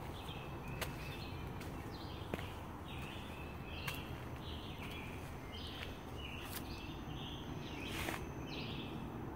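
Woodland birds calling over and over in short chirps, about two to three a second, with a few sharp clicks.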